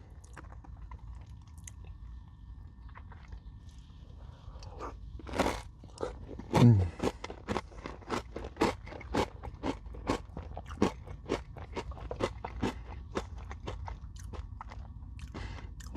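A crunchy Nature Valley granola bar dipped in yogurt and whipped cream being bitten and chewed close to the microphone. A loud crunching bite comes about five seconds in, followed by steady crunchy chewing at about two chews a second.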